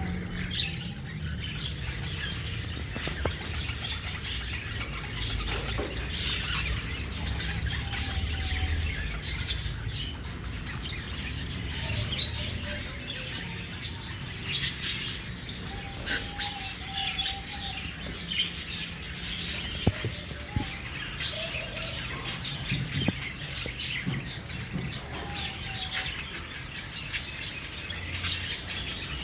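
A flock of caged budgerigars chirping and chattering, with many short high calls overlapping and a few lower, longer calls among them, over a low steady hum.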